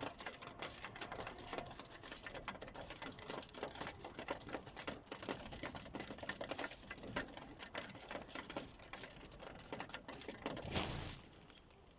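Sparrows pecking at a bird feeder: a dense, irregular patter of beak taps on the feeder. Near the end comes a short, louder rush of noise, after which the tapping stops.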